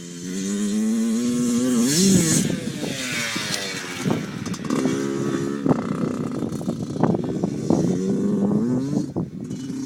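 Small dirt bike engine accelerating: its pitch climbs for about two seconds, drops sharply, then climbs again in two shorter runs later on, with a rush of noise about two seconds in and scattered clattering.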